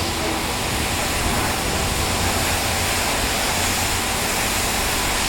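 Pressure washer wand spraying water onto farm equipment, a steady rushing hiss with a faint steady hum beneath it.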